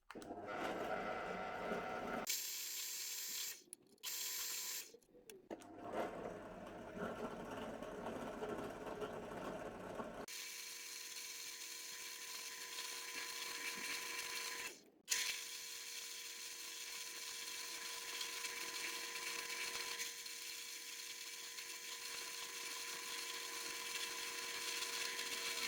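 Small electric power tool running steadily with a motor whine, in several separate stretches that start and stop abruptly.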